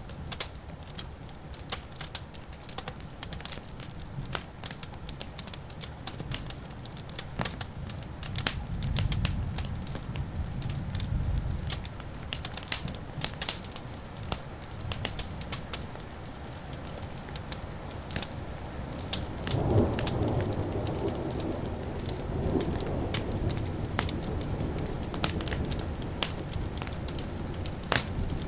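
Wood fire crackling and popping steadily, with thunder rumbling low in the background. About twenty seconds in, a louder clap of thunder breaks and rolls on.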